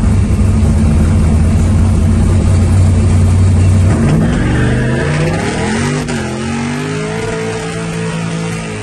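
Ford Escort's V8 engine heard from inside the car, running loud and steady for about four seconds, then its pitch rises and wavers as it revs up and the car moves off.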